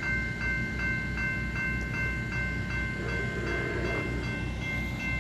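Amtrak Cascades passenger train passing, a steady low rumble on the rails, with a bell ringing in a regular beat, about three strokes a second.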